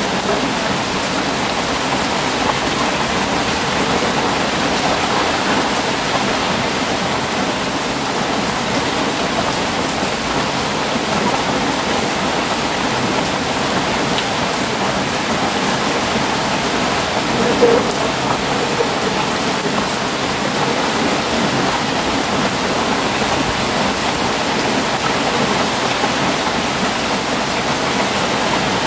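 Steady rain falling, an even hiss with no letting up. About two-thirds of the way through there is one short, slightly louder sound.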